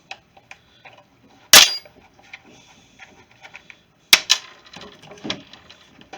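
Sharp clicks and knocks of a Torx wrench working the screw of a string trimmer's plastic air filter cover: one loud knock, a quick pair of clicks, then a softer one, with light tool ticks between.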